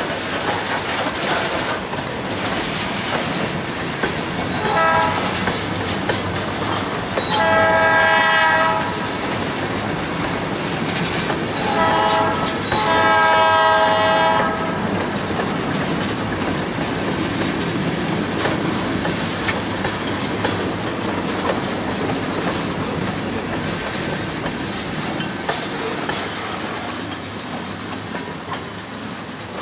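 Freight cars, tank cars and covered hoppers, rolling past, their wheels clicking steadily over the rail joints. A multi-chime locomotive horn sounds four times: a short blast about five seconds in, a long one a couple of seconds later, then a short and a long one around twelve to fourteen seconds in.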